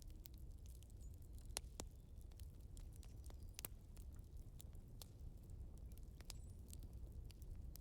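Wood fire crackling faintly: irregular small pops and snaps of burning logs over a low rumble.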